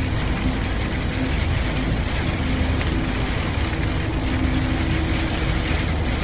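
Car driving in rain: a steady hiss of rain and wet road noise with a low engine hum underneath.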